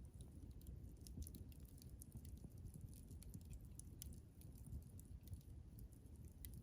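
Campfire burning quietly: scattered sharp crackles and pops from the burning wood over a low, steady rumble.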